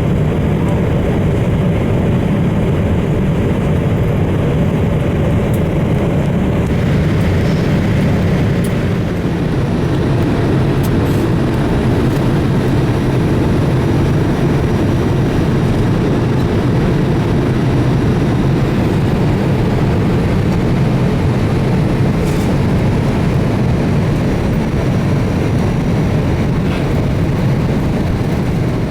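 Steady jet engine and airflow noise inside the cabin of a Boeing 787-8 Dreamliner with General Electric GEnx-1B engines, a loud even rumble.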